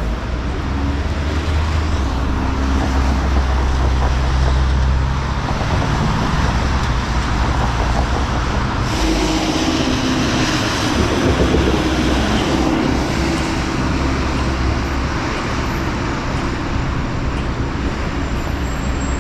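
City street traffic: a large vehicle's engine running low close by for the first few seconds, then passing vehicles, with a louder stretch of traffic noise from about halfway through.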